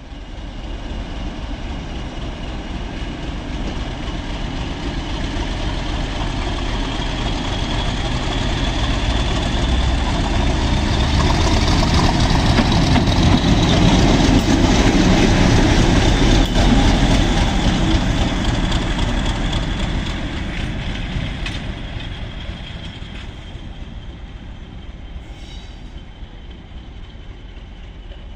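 A train passing through the station, growing louder to a peak about halfway through and then fading away, with a steady high whine over the rumble.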